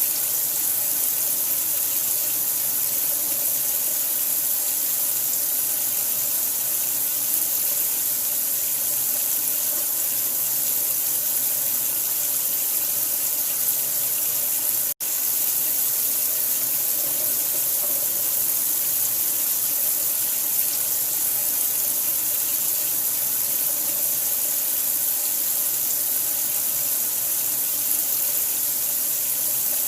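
Water running steadily from a tap, an even hiss that cuts out for an instant about halfway through.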